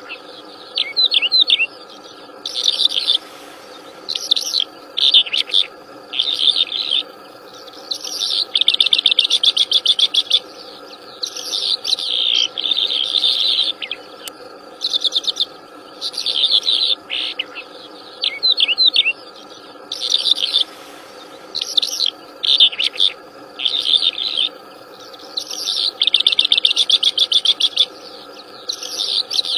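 A wild songbird singing loudly and steadily, giving short phrases every second or two, some of them fast trills, over a steady drone.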